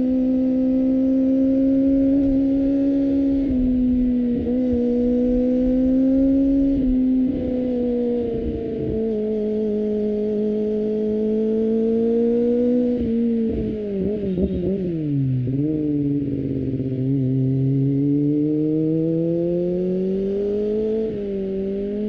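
Kawasaki ZX-25R 250cc inline-four engine running at high revs through an Akrapovic exhaust while riding, holding a steady high pitch with small steps. About two thirds of the way in the revs fall sharply, then climb steadily again as the bike accelerates.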